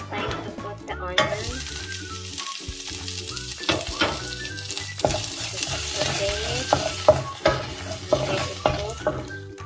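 Chopped onion hits hot oil and garlic in a stainless steel frying pan, setting off a sizzle that starts suddenly about a second in. A wooden spoon then stirs it, with several short knocks and scrapes against the pan.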